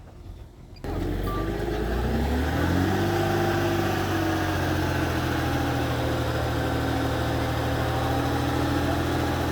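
The diesel engine of a heavy earthmoving machine comes in suddenly about a second in. Its pitch rises over the next two seconds, then it runs steadily.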